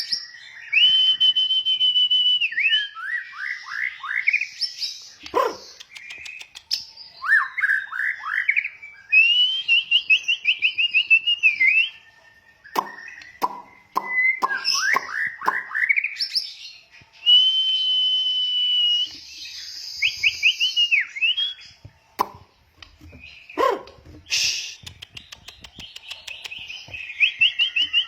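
White-rumped shama (murai batu) singing: a varied series of loud whistled phrases, held clear notes broken by fast runs of rising and falling notes, with a few sharp clicks between phrases.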